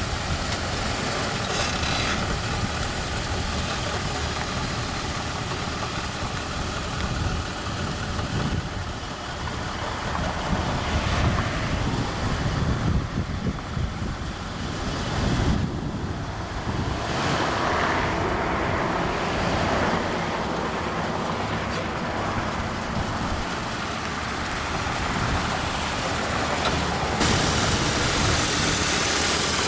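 1988 Dodge Dakota's 3.9-litre V6 engine running steadily at idle, with a brighter hiss coming in near the end.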